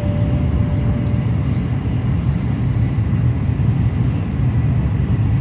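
Steady low rumble of a Shinkansen bullet train running at speed, heard from inside the passenger car. The last note of an onboard chime fades out about a second in.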